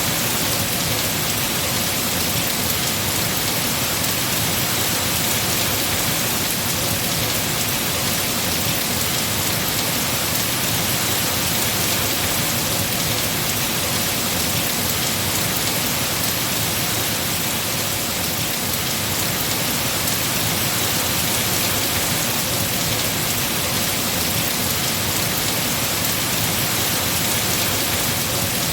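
Heavy rain falling on trees, a dense, steady hiss of drops on leaves.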